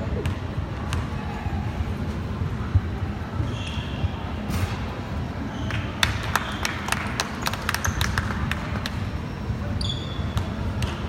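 Basketball being dribbled and bouncing on a gym court over a steady hall rumble. There is a dense run of sharp bounces and footfalls about six to nine seconds in, and a few short high squeaks.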